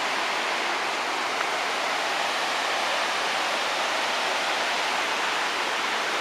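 Water rushing steadily over a dam spillway: an even, unbroken roar of falling water.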